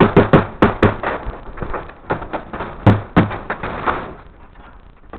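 A string of sharp knocks on wood: five quick ones at the start, then several more spaced out, the loudest about three seconds in, fading near the end.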